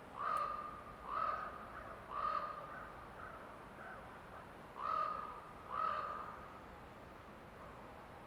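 A bird calling in a forest: five short calls, three about a second apart, then after a pause of about two seconds two more.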